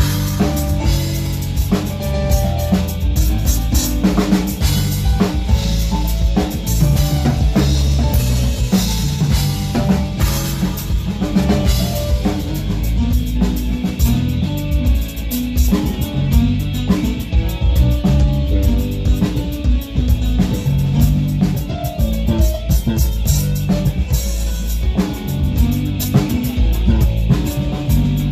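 A band playing an instrumental passage during a soundcheck: a drum kit hit steadily over bass and other pitched instruments.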